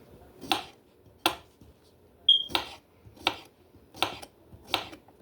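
Food preparation on freshly sliced mini cucumbers: a regular run of short, sharp strokes, about one every 0.7 seconds, with a brief high squeak a little over two seconds in.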